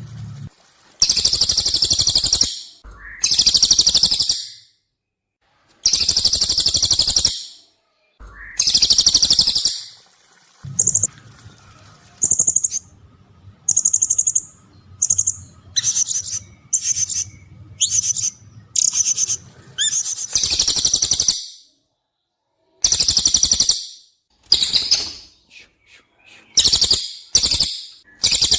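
Recorded calls of cililin and serindit (blue-crowned hanging parrot), mastering audio for songbirds: long, sharp, high-pitched buzzy phrases of about a second or more each, separated by short pauses. Through the middle comes a quicker series of shorter, high single notes before the long phrases return.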